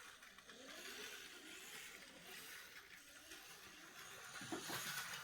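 Intelino smart toy train's small electric motor running along its plastic track: a faint whine that wavers up and down in pitch over a hiss of wheel noise.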